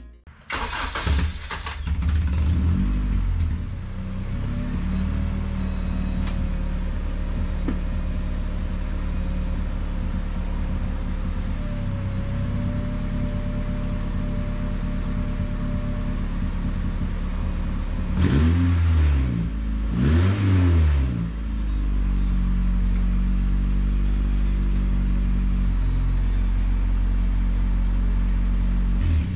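Mazda Miata's four-cylinder engine starting about a second in and running with the car up on a lift, its rear wheels turning free: the drivetrain is run to check the freshly fitted 3.63 Torsen differential. The engine is revved up and back down twice near two-thirds of the way through, then held at a steady higher speed.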